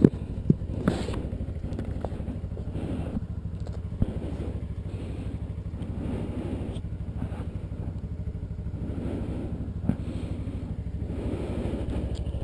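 Kawasaki Ninja 250R parallel-twin engine idling steadily, heard from inside the rider's helmet. There are a few short knocks, the most near the start.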